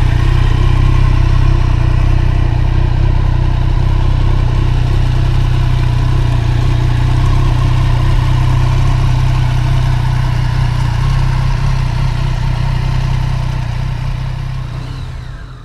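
Motorcycle engine running at a steady speed, with a deep, even note; it dies away over the last second or two.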